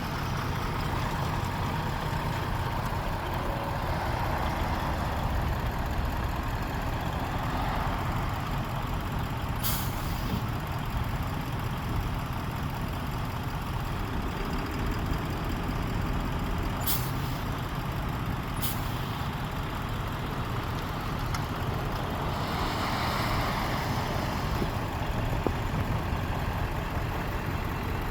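Heavy truck diesel engine running steadily, swelling twice, with three short sharp hisses of air.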